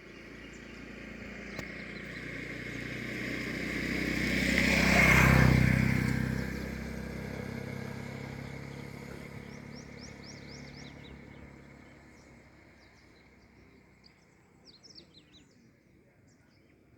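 A motor vehicle passes by, growing louder to a peak about five seconds in and then fading away. As it fades, small birds chirp in quick runs of short calls.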